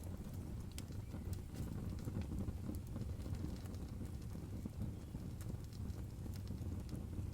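Campfire crackling: irregular sharp snaps and pops over a steady low rumble of the burning fire.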